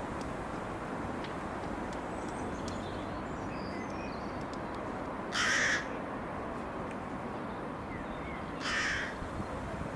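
A bird calling twice, two short harsh calls about three seconds apart, over steady low background noise.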